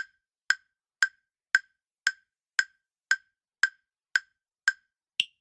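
Countdown timer sound effect ticking for the quiz's answer time: ten sharp wood-block-like ticks about two a second, then a final tick that is higher in pitch.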